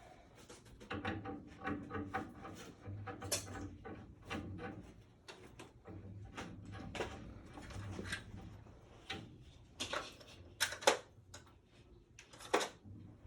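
Irregular knocks and clatter of hands-on installation work, with several sharper hits near the end.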